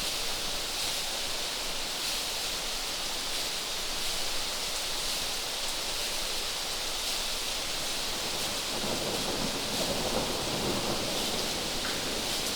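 Steady rushing water noise, hissy and even, with a low rumble swelling about eight and a half seconds in and fading out by about eleven seconds.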